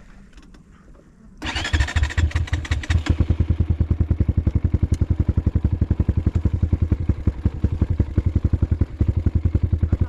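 Off-road motorcycle engine coming in loudly about a second and a half in, rough and rasping for a second or so, then running steadily at low throttle with an even, fast beat.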